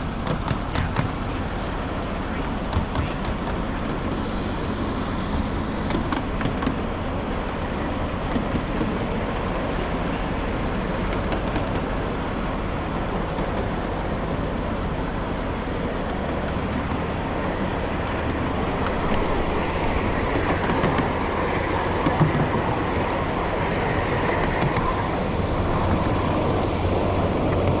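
Ride-on 1/8-scale miniature train rolling along its track: a steady running noise with occasional sharp clicks, getting a little louder near the end.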